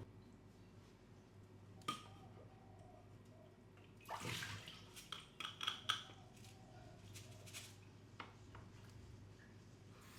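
Water splashing and dripping at a sink, with a sharp click about two seconds in, a run of splashing and clatter from about four to six seconds in, and another click near eight seconds.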